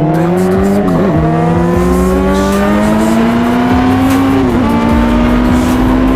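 Honda CBR600RR's inline-four engine accelerating under way, its pitch climbing. The pitch dips briefly about a second in and again about four and a half seconds in, as it shifts up a gear each time, then holds fairly steady near the end.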